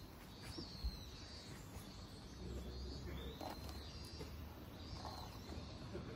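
A bird calling faintly in short chirps that rise and fall, every second or two, over a low steady rumble, with one brief thump about a second in.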